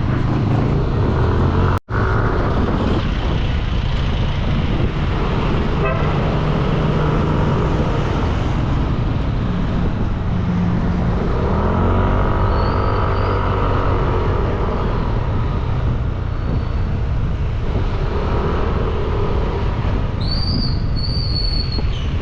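Motorbike engine running under a steady rumble of wind and road noise while riding through traffic. Vehicle horns sound around the middle and again near the end. A brief break in the sound comes about two seconds in.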